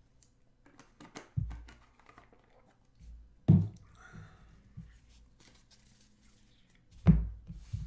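Trading cards and packs being handled on a table: a few dull thumps, the loudest about halfway and near the end, with light rustling and clicking of cards between them.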